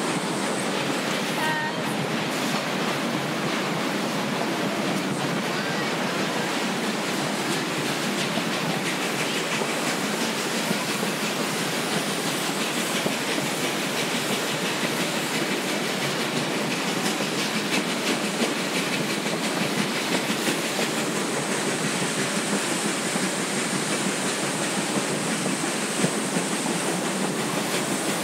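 Narrow-gauge passenger train rolling along the track: a steady rumbling rattle of wheels on rails, with occasional sharp clicks.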